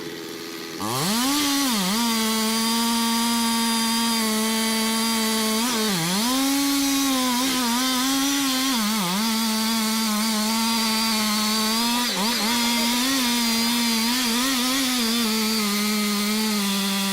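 Chainsaw throttled up to full speed about a second in, then running flat out with a steady high buzz whose pitch dips briefly several times.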